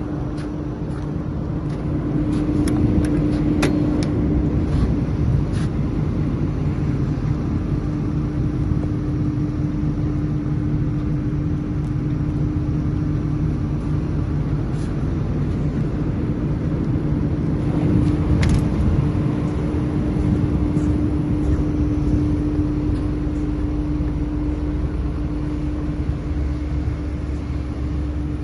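Caterpillar 323D L excavator's diesel engine running steadily, with a constant hum over a low rumble. A few sharp clicks or knocks come around three to four seconds in and once more about eighteen seconds in.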